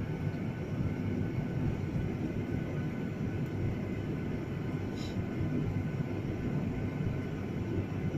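Steady cabin noise inside a jet airliner: a low drone and rumble from the engines and airframe, with a brief faint high tick about five seconds in.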